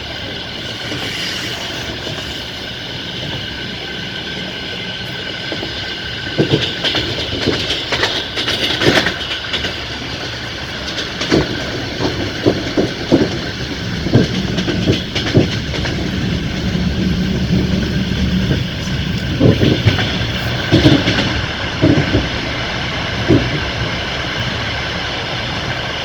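Passenger train wheels running over the rails, heard from a carriage window: a steady rumble with a high squeal throughout, and from about six seconds in, irregular clacks as the wheels cross rail joints.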